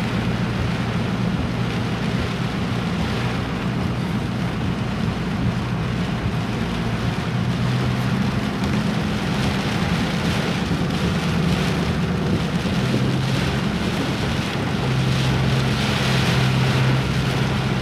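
Car engine running steadily as the vehicle drives through deep floodwater, with water rushing and splashing against the body and rain noise around it, heard from inside the cabin.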